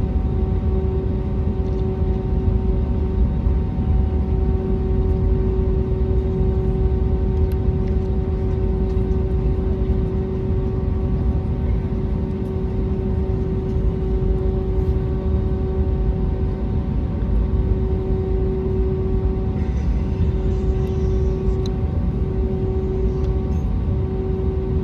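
Cabin noise of an Airbus A320neo taxiing after landing: a steady low rumble from the engines at idle and the rolling airframe, with a constant hum tone over it.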